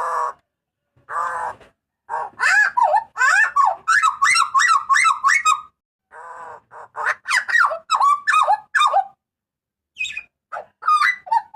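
Butcherbird (jagal papua) giving loud calls: a couple of short harsh notes, then fast runs of sharp, rising-and-falling whistled notes in bursts separated by brief pauses.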